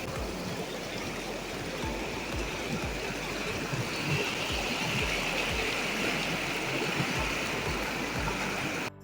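Steady rushing of a flowing river over stones, with soft low thumps now and then. It cuts off abruptly just before the end.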